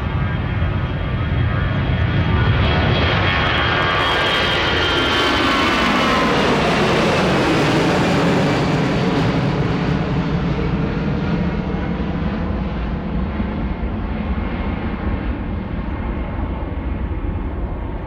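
Jet engines of an Airbus A321 at takeoff power as it passes by: a loud rumble with an engine whine that slides down in pitch over a few seconds as the plane goes past, then the sound slowly fades as it climbs away.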